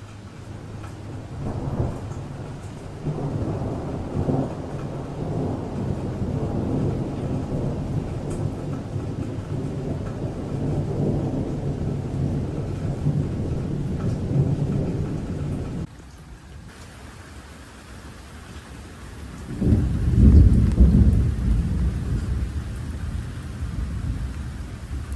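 Thunder rumbling in a long rolling peal that cuts off suddenly about two-thirds of the way through. A few seconds later a second, louder peal breaks in sharply and rolls away.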